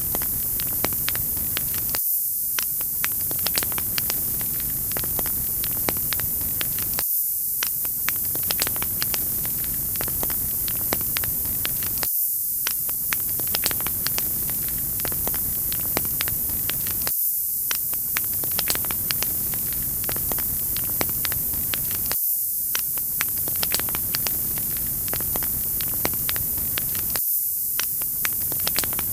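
Wood fire crackling: a steady hiss with frequent sharp pops and snaps, briefly dipping every five seconds.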